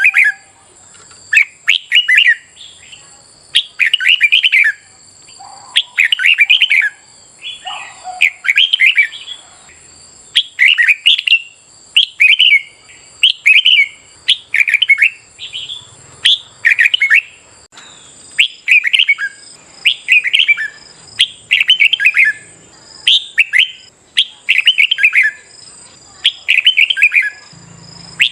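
Red-whiskered bulbul singing: short, loud song phrases repeated about once a second with brief gaps, as in competitive song used to train caged birds.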